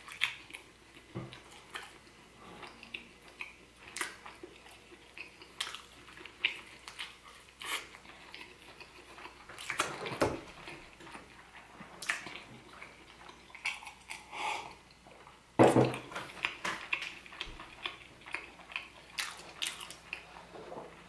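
Close-miked chewing of a toasted breakfast burrito: irregular soft crunches and wet mouth clicks, with a louder crunch about two-thirds of the way through.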